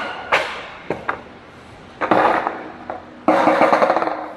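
Skateboard on wet pavement: a few sharp knocks of the board in the first second, then two stretches of scraping, rolling noise, a short one about two seconds in and a longer, louder one near the end.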